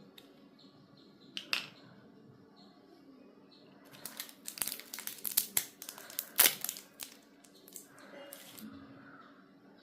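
Plastic packaging being crinkled and torn open: one sharp crackle about a second and a half in, then a dense run of crinkles and snaps from about four to seven seconds in.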